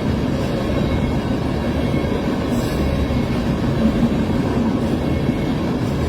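Train passing close by, its cars rolling over the rails with a steady, loud rumble.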